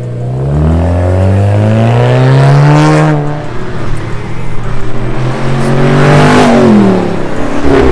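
Car engine revved hard twice: the pitch climbs for about three seconds and cuts off, then climbs again and falls away near the end.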